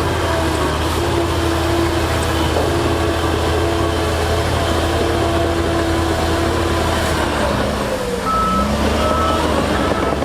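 Heavy diesel earth-moving machinery running steadily, with a reversing alarm starting to beep about once a second near the end.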